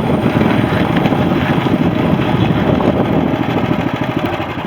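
Coleman CT200U mini bike's 6.5 horsepower Honda-clone single-cylinder engine running while the bike is ridden, with wind buffeting the microphone. The engine sound drops off near the end.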